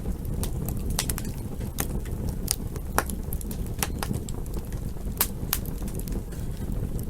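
Wood fire crackling: irregular sharp pops and snaps, a few a second, over a steady low rush of burning.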